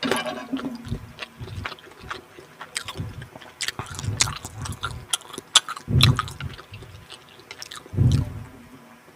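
Close-miked chewing of food, with many small sharp mouth clicks throughout and heavier chews about four seconds in, around six seconds and again near the end.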